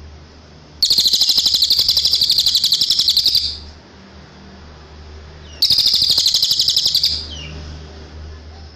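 Cililin songbird singing two long, high, rapidly pulsing trills: the first about two and a half seconds long, the second about a second and a half, a few seconds after it.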